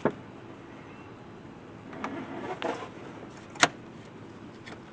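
Sharp clicks and knocks of tools and parts being handled during hand work on a truck's stock air intake: a loud click at the start, a short clatter about two seconds in, and another sharp click about three and a half seconds in.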